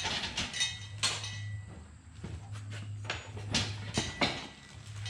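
Sharp knocks and clatter of a removed engine cylinder head being set down and shifted on a table, one early knock ringing briefly, over a steady low hum.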